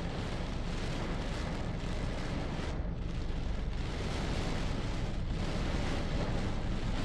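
Storm wind buffeting the microphone: a steady, heavy rumbling rush with no breaks.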